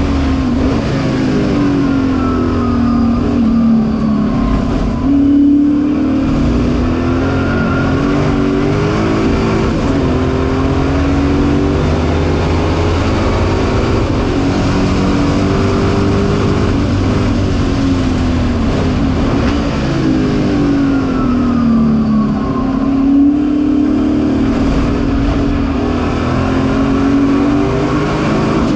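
1965 Ford Mustang race car's V8 engine at racing speed, heard from inside the cabin, its note climbing under acceleration and dropping at each gear change and lift for the corners.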